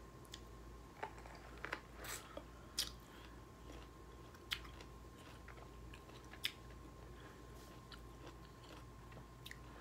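A person biting and chewing a raw lemon, peel included, with faint, irregular crunches and wet clicks.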